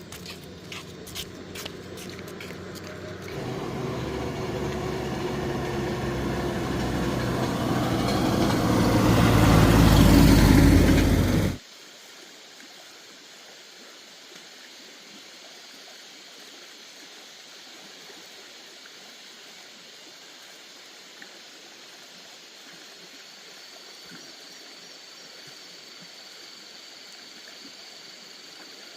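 A motor vehicle's engine getting steadily louder as it approaches, then cut off abruptly about eleven seconds in; after that a steady quiet hiss of outdoor ambience.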